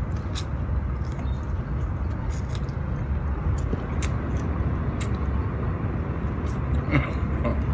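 Chewing a mouthful of crunchy spring onion, with short, sharp mouth clicks scattered throughout, over a steady low background rumble.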